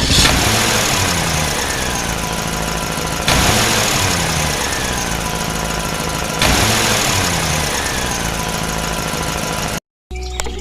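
An engine running: the same stretch, a loud burst followed by a slowly falling pitch, is heard three times, about three seconds apart.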